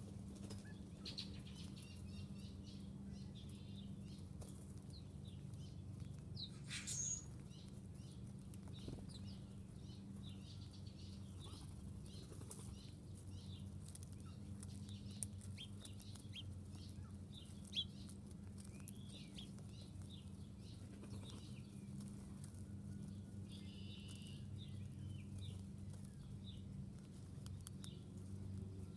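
Wild birds: faint scattered chirps and short wing flutters over a steady low hum, with a louder call about seven seconds in.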